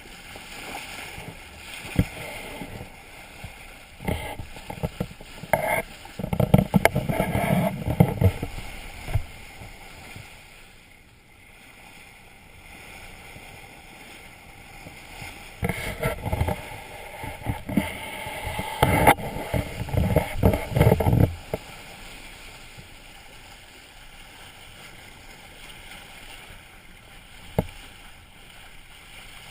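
A small sailing boat under way: steady water and wind noise, with two louder, choppy spells of rushing and knocking, about four seconds in and again about sixteen seconds in.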